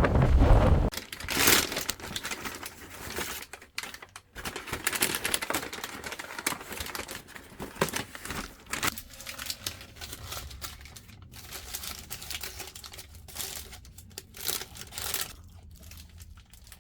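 Paper food wrapping crinkling and tearing in irregular crackles as a takeaway burger is unwrapped. Wind buffets the microphone for about the first second.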